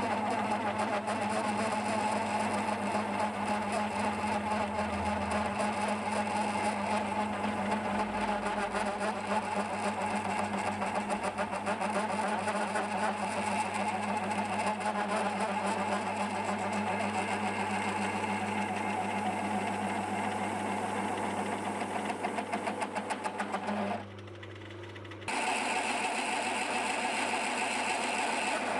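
Myford S7 lathe running steadily with a constant motor hum, turning an aluminium pulley. The sound drops away suddenly for about a second near the end, then comes back.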